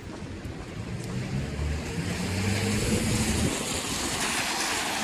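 Traffic on a wet city street: a vehicle engine hum that cuts off about three and a half seconds in, under a hiss of wet road noise that swells from about two seconds in.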